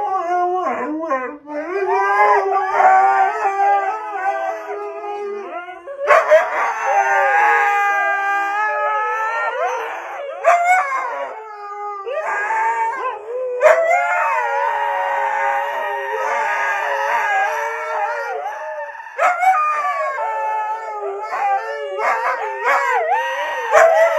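A dog howling in a run of long, drawn-out howls that waver and slide in pitch, with brief breaks between them.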